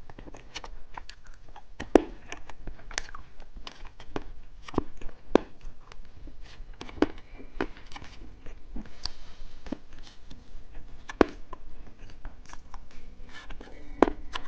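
Close crackling and clicking of candy and its plastic wrappers being handled and eaten. There are irregular sharp crackles throughout, with louder snaps about 2, 5 and 11 seconds in.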